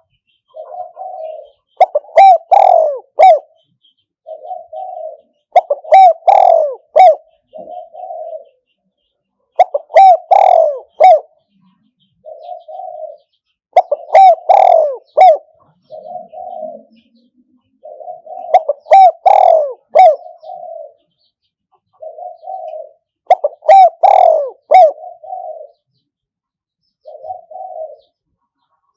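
Spotted dove cooing repeatedly: a loud coo phrase about every four seconds, with softer coo notes between the phrases.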